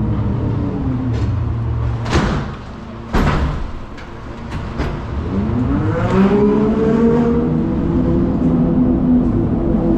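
A vehicle engine running steadily, dropping away about two seconds in, with two sharp knocks about a second apart; then it rises in pitch and settles at a steady, higher speed.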